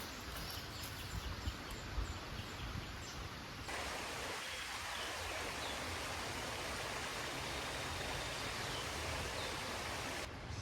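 River water flowing, a steady rushing noise, with a few faint high chirps. It gets slightly louder and brighter about a third of the way in and drops back just before the end, as at cuts in the recording.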